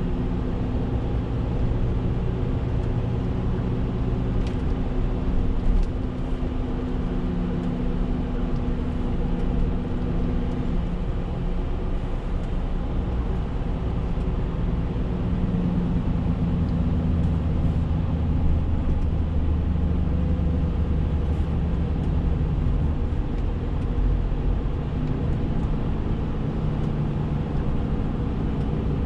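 Renault T520 truck's diesel engine running on the road, with tyre and road noise. The engine note shifts in pitch several times as its speed changes, with a short drop in loudness about six seconds in.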